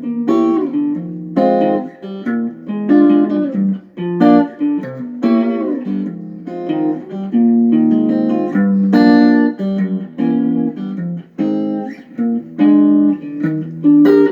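Guitar playing a progression of extended and altered jazz chords (dominant sevenths with flat and sharp ninths, minor sevenths, augmented fifths). Each chord is struck and left to ring, a new one about every second.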